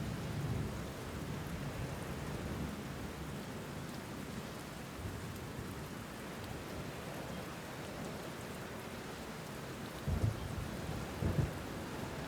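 Steady rain with low thunder rumbling: a rolling rumble in the first couple of seconds and two short low rumbles near the end.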